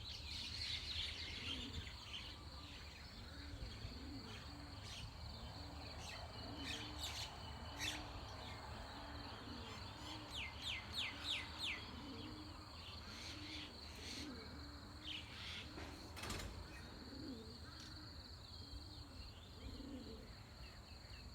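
Dawn chorus of birds chirping and calling over a steady high insect drone, with a low call repeating about once a second. A quick run of about five sweeping notes comes near the middle, and a single sharp click about three-quarters through.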